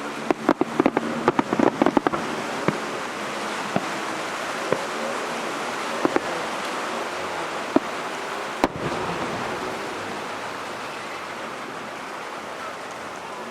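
Fireworks bursting: a rapid run of crackling cracks in the first two seconds, then single bangs every second or two, the sharpest about eight and a half seconds in, over a steady background rush.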